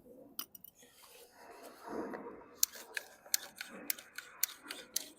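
Handling noise, then a run of sharp, irregular clicks, about two or three a second from roughly halfway through, from a small-engine recoil starter being worked by hand after its pawls and spring were oiled.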